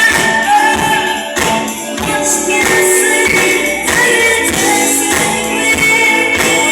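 Live band playing a song, with a voice singing over the instruments.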